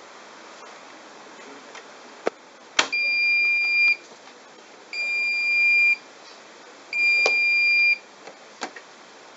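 Bosch washing machine's electronic signal beeping three times, each a steady one-second tone about two seconds apart, typical of the end-of-programme alert. A sharp click comes just before the first beep.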